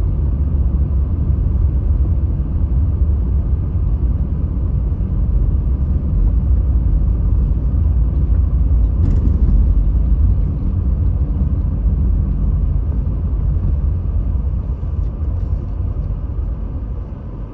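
Steady low road and engine rumble heard inside a moving car, growing quieter over the last few seconds. A faint click sounds about halfway through.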